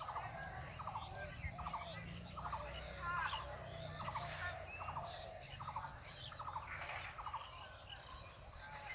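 Several birds calling together: a short, rapid pulsed call repeats about once a second among many quick chirps and whistles.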